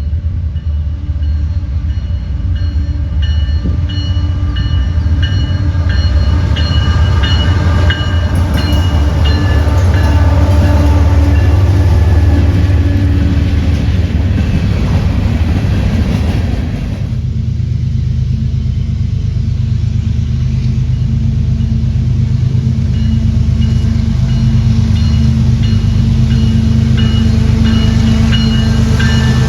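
A train passing close by: a heavy, loud rumble of locomotive engines and rolling wheels, with steady tones over it. The sound changes character about two-thirds of the way through.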